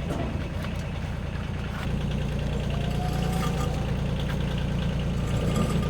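A vehicle engine running steadily at idle, growing louder about two seconds in.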